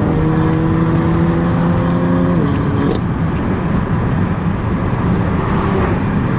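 Car engine pulling at road speed, its pitch climbing slowly and then dropping about two and a half seconds in, over heavy road and wind noise; the engine tone returns more faintly near the end.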